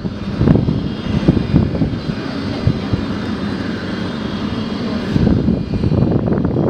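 Antonov An-225 Mriya's six D-18T turbofan engines running loud: a deep, crackling rumble with a high steady whine over it, the rumble easing for a few seconds mid-way and building again near the end.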